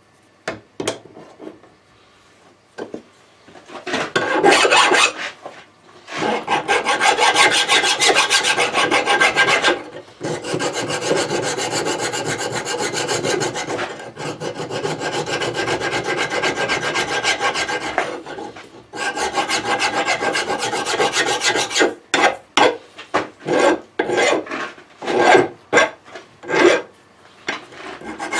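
Rasping of a tool working steel: several long rasping runs of a few seconds each, then a string of short, quick strokes near the end.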